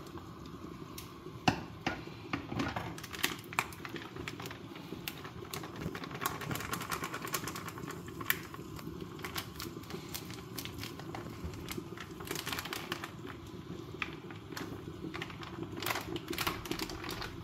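Scattered light clicks and taps of kitchen utensils and dishes being handled during food preparation, over a steady low room hum, with a few busier bursts of clicking near the end.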